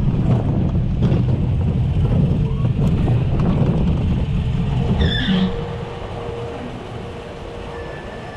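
Reverchon roller coaster car running along its track, its wheels making a steady low rumble. About five seconds in there is a brief squeal and the rumble drops to a quieter run with a faint steady hum, as the car slows.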